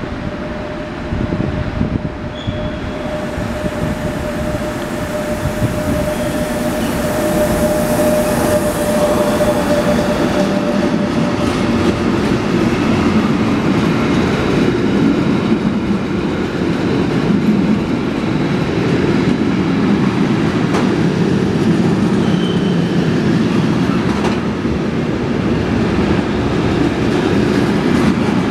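Freight train hauled by a Bombardier TRAXX class 185 electric locomotive passing at speed, with a steady whine over the first ten seconds or so as the locomotive comes by. After that, the long string of container and trailer wagons rumbles past, with wheels clattering over the rail joints.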